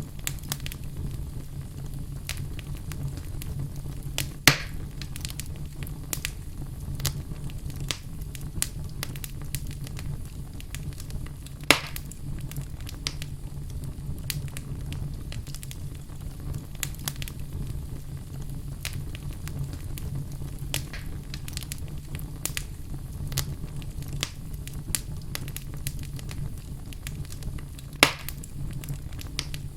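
Wood fire burning in a fireplace: steady low rumble of the flames with constant small crackles and three louder pops, about four seconds in, about twelve seconds in and near the end.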